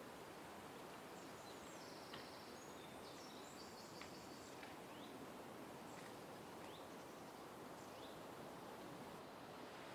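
Faint bird calls over a steady background hiss: a few high notes in the first few seconds, then a series of short rising chirps repeated about once a second.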